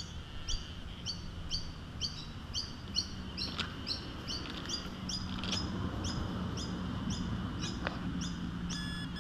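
A bird calling a steady series of short, high chirps, about three a second, over a faint low hum that comes in about three seconds in.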